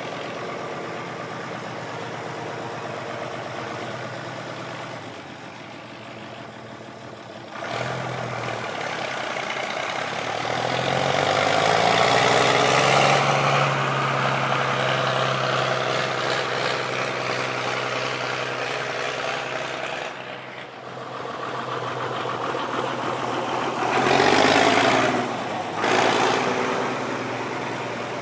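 Vintage farm tractor's diesel engine running as the tractor is driven past, getting louder about eight seconds in, swelling with throttle a few seconds later, and loudest near the end.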